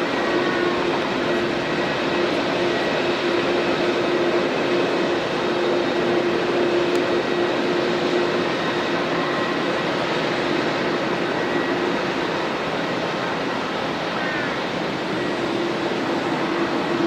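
Jet airliner engines running steadily: a broad, even rushing noise with a steady low hum that drops out about halfway through and returns near the end.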